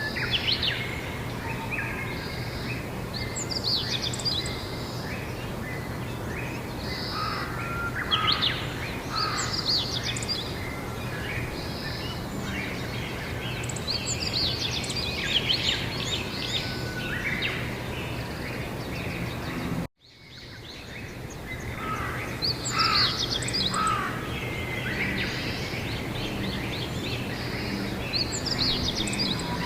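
Several birds singing and chirping in a spring chorus over a steady low hum and background noise. About two-thirds of the way through, the sound cuts out for an instant and fades back in.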